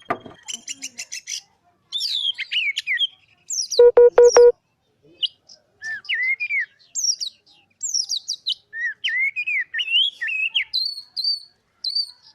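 Oriental magpie-robin (kacer) singing a long, varied song: rapid clicking trills, rising and falling whistled phrases, and repeated high notes near the end. About four seconds in, a loud, low, buzzy rattle of four quick pulses stands out as the loudest sound.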